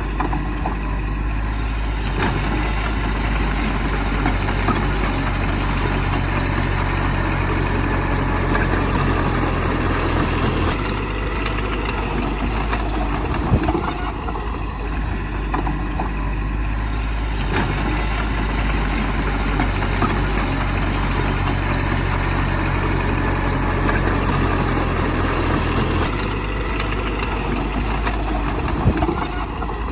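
Heavy diesel engine of a bulldozer running steadily under work, its note shifting about a third of the way in and again near the end as the load changes. There are a couple of brief metallic knocks.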